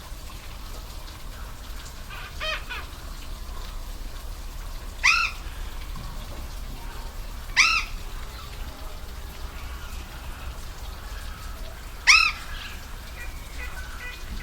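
A bird calling over the steady rush of a waterfall: three loud, short calls, each rising and then falling in pitch, spaced a few seconds apart, with a fainter call about two seconds in.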